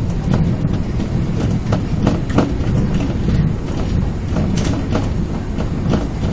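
Osaka Metro 22 series subway train running at speed: a steady low rumble with irregular clicks of the wheels over the rail joints, one sharper click about two seconds in.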